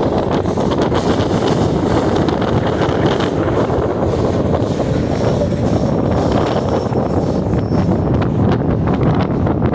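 Strong wind buffeting the microphone: a loud, steady rumbling roar of gusts with no pause.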